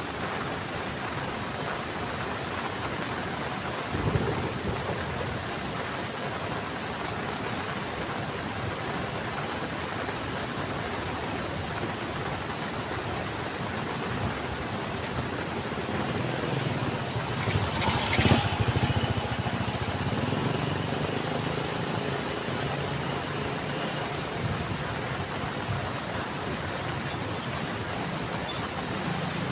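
Heavy rain falling steadily. About halfway through, a low motor-vehicle engine hum comes in, with a short loud clatter a couple of seconds later, and the engine grows louder again near the end.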